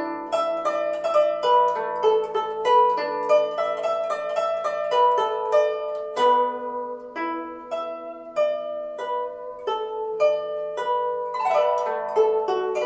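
Guzheng solo: a steady run of plucked notes that ring on over held low notes, with a few notes bent in pitch near the end.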